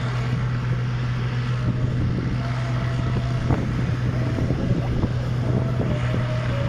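International Harvester 956XL tractor's diesel engine running steadily, with no revving, before its pull.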